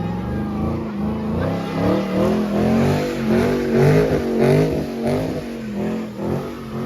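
Muscle-car V8 engine revving hard, its pitch climbing and dropping several times in quick succession, loudest in the middle.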